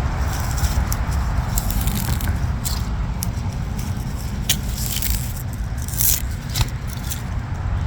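Kohlrabi being cut and handled: scattered sharp snips, scrapes and crackly rustles of stems and leaves over a steady low rumble.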